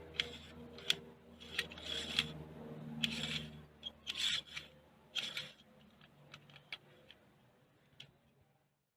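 A series of rough scraping or rubbing strokes, uneven in spacing, over a faint low steady hum that cuts out near the end.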